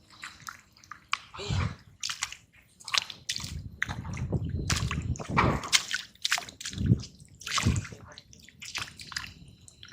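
Wet tidal mud and shallow water squelching and splashing in irregular bursts, some with a dull low thud, as the mud is worked to pull out buried shellfish.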